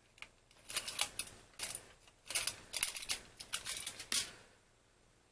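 Scissors snipping a small strip of aluminium foil: a run of short, sharp snips lasting about three and a half seconds, then stopping.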